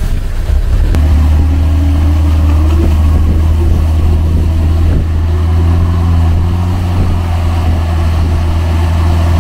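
Off-road vehicle's engine running hard, its pitch rising over the first couple of seconds and then holding steady over a deep, constant drone.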